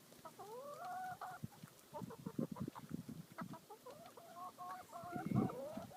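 Domestic chickens clucking in short repeated calls as they crowd in to take scratch grain from a hand, with a few short clicks in the middle and a brief louder low sound near the end.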